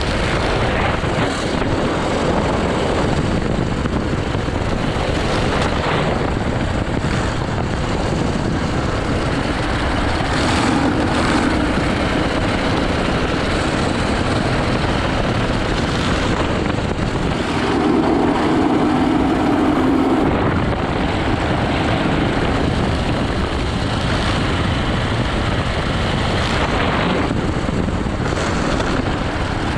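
80cc go-kart engine running hard on a timed lap, with wind and road noise mixed in. The engine note swells twice, briefly about ten seconds in and more strongly near the end of the second third.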